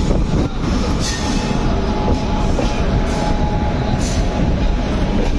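Train running on rail, heard from aboard: a steady rumble of wheels on track with sharp clicks about once a second, and a faint thin squeal for a couple of seconds in the middle.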